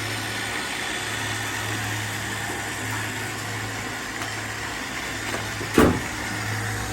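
Robot vacuums running: a steady motor hum under a constant suction hiss, with one sharp knock near the end.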